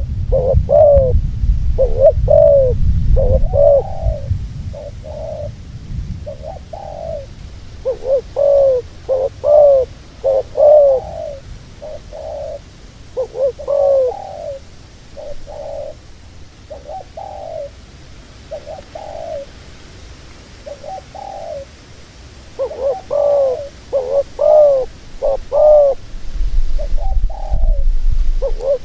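Dove cooing: short, arched coos repeated in clusters, with pauses of a second or so between the clusters. A low rumble sits under the first few seconds and again near the end.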